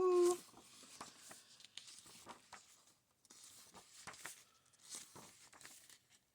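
Paper pages of a book being handled and turned: faint, scattered rustles and small ticks.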